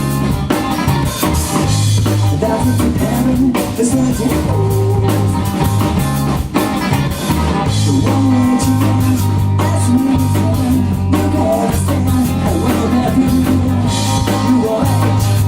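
Live rock band playing: electric guitar, bass and drum kit.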